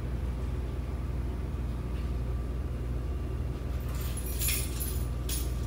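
A car engine running steadily with a low, even hum, with a few short metallic clinks from about four seconds in.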